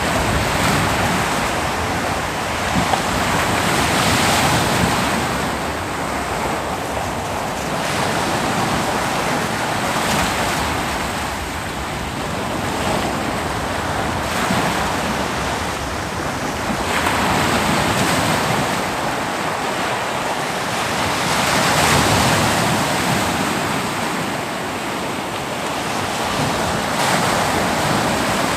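Ocean surf breaking on a beach: a steady wash of waves that swells and fades every few seconds, with some wind noise on the microphone.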